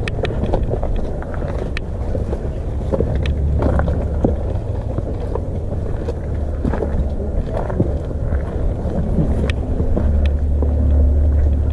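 Steady low rumble of wind and movement noise on a chest-mounted camera's microphone, with scattered light clicks.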